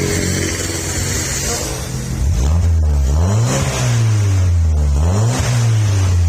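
Honda Accord engine running through a newly fitted aftermarket racing exhaust: it idles steadily, then about two seconds in it is revved twice, the pitch rising and falling back each time.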